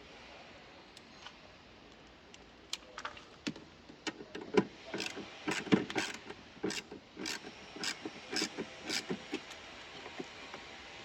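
A series of irregular sharp clicks and knocks, a few a second, some ringing briefly. They start about three seconds in and stop near the end, over a faint steady hiss.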